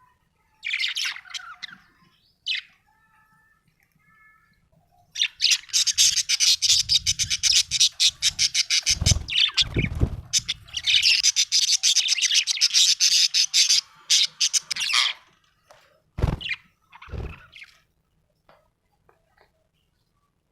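Budgerigar chirping and chattering: a short burst of chirps about a second in, then a long run of fast, scratchy chatter lasting about ten seconds, broken by a few low thumps, before it falls quiet near the end.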